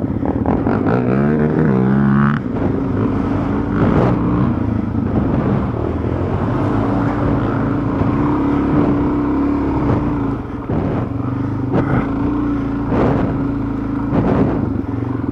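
Dual-sport motorcycle engine running, its pitch rising and falling over the first two seconds and then holding steady, with a few short knocks partway through.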